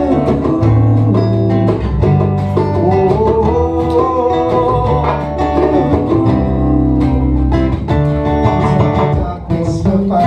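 Acoustic guitar playing an instrumental passage without singing: sustained low notes with a melody line moving above them.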